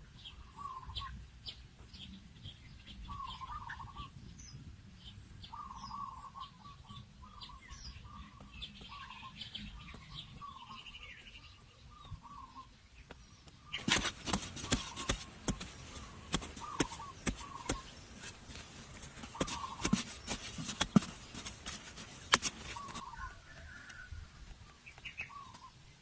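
Birds calling in short, repeated notes throughout. About halfway through, a stretch of loud, rough scraping noise with sharp clicks lasts roughly nine seconds, then stops.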